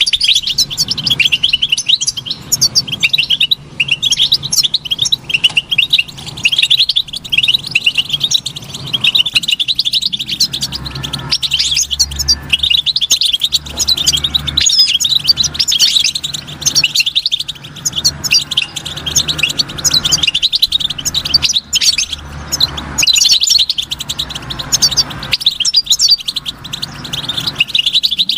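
European goldfinch singing a fast, continuous twittering song of rapid high chirps, with a faint low hum underneath.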